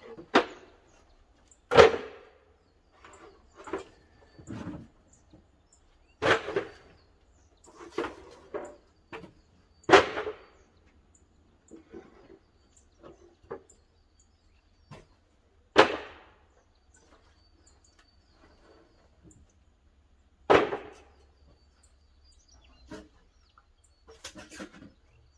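Pine firewood tossed into a wood-fired kiln's firebox, landing with sharp wooden knocks and clatters. The loudest fall every four to six seconds, with smaller knocks between.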